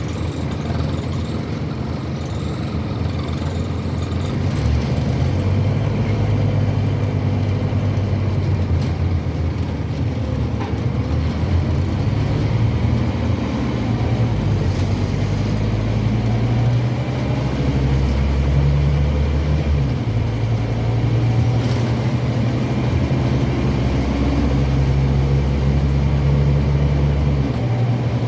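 Scania N230UB OmniCity single-decker bus heard from on board, its rear-mounted five-cylinder diesel running under way. The low engine drone rises and falls in steps several times as the bus pulls and changes speed, with a faint high whine above it.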